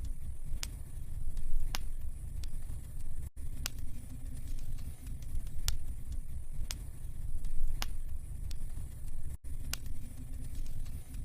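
Wood fire burning in a fireplace, crackling with sharp single pops about once a second over a steady low rumble.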